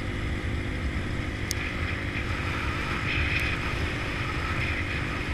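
Motorcycle engine running steadily with a low rumble, with wind noise on the microphone.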